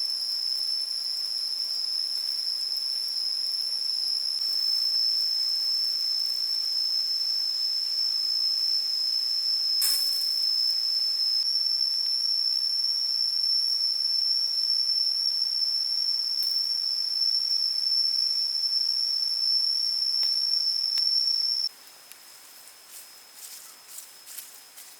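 Insect drone in the forest: one steady, high-pitched whine held without a break, cutting off abruptly near the end. A few light clicks follow over quieter background.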